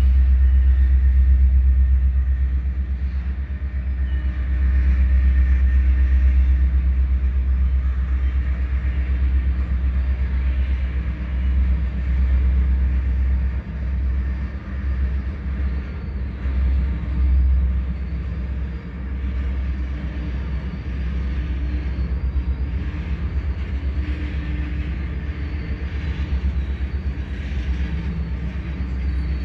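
Freight train of loaded flatcars rolling past on the rails: a steady low rumble of wheels and cars.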